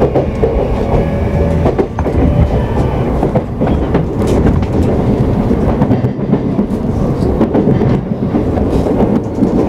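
JR East E235 series electric train (Yamanote Line stock) running at speed: a steady rumble of wheels on rail with a few clacks over rail joints.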